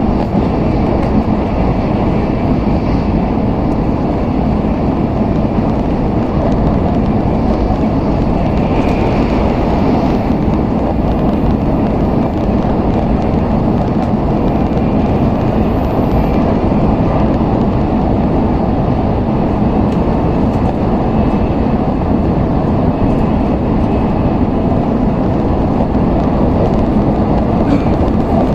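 Steady running noise of an N700S Shinkansen train heard from inside the passenger cabin: an even, unbroken low rumble.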